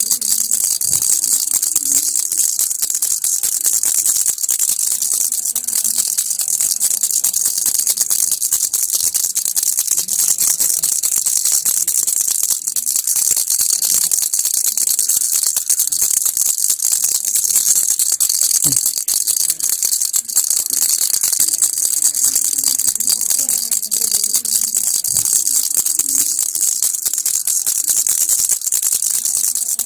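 Baby rattle shaken without a break: a dense, fast, even rattling of small beads, bright and high.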